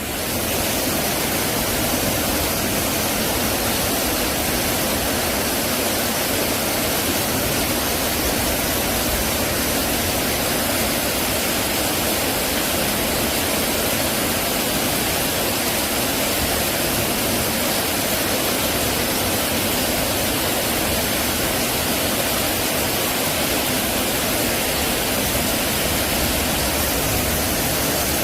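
Heavy tropical rain pouring down in a steady, even rush, with no thunder claps.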